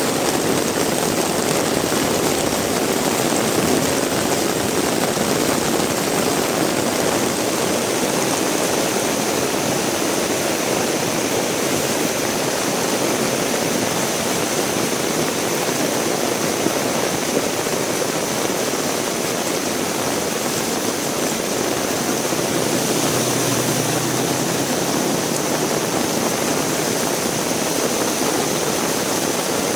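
Heavy rain pouring steadily in a hard, even hiss, with a low hum rising briefly out of it about two-thirds of the way through.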